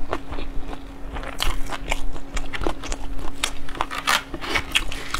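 Close-miked mouth sounds of a person chewing sushi: irregular wet, crunchy clicks, over a faint steady hum.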